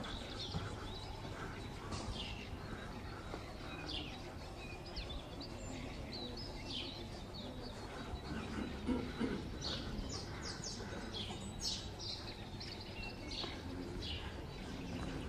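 Small birds chirping: short, high chirps scattered throughout, more of them past the middle, over a steady low hum of outdoor background noise.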